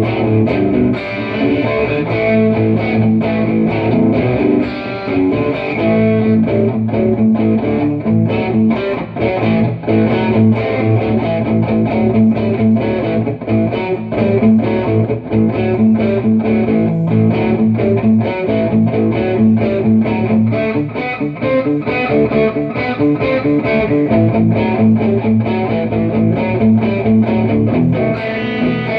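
Electric guitar played with Boss Metal Zone distortion through a Mooer Radar speaker-cabinet simulator with room ambience: continuous distorted chords and notes, with the cab simulation cutting off the top end.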